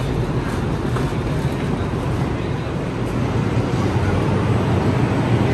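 Steady low hum and rumble of a light rail train standing at a station platform with its doors open, with faint voices in the background.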